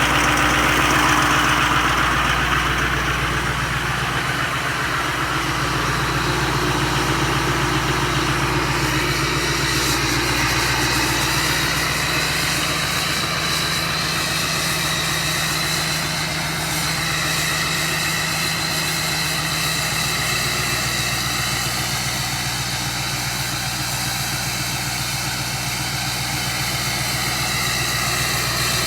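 2015 Duramax 6.6-litre V8 turbodiesel idling steadily, still cold, shortly after a cold start at about 13 below zero.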